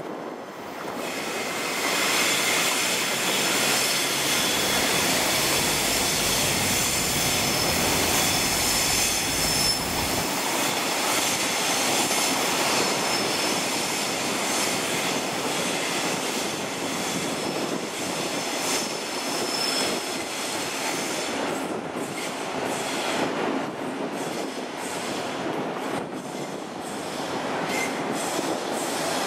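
Sydney Trains double-deck electric trains passing close by: a steady rush of wheels on rail with high, thin wheel squeal on and off over it.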